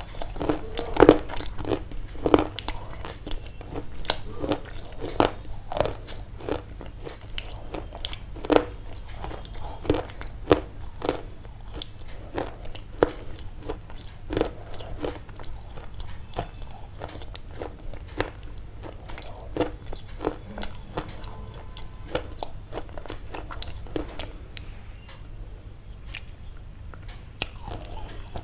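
Close-up crunching and chewing, with sharp, irregular crunches about once or twice a second over a steady low hum.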